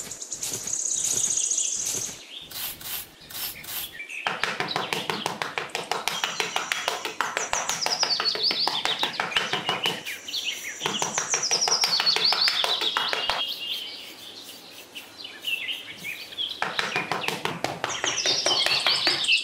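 Birds chirping and singing in fast, rattling trills that slide down in pitch, coming in phrases of a few seconds with short pauses between them.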